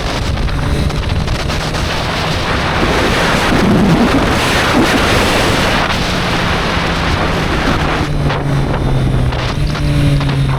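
Wind rushing over the microphone on a moving Triumph Street Triple 765 R, with the motorcycle's inline three-cylinder engine running underneath at a steady pitch that steps up and down a few times.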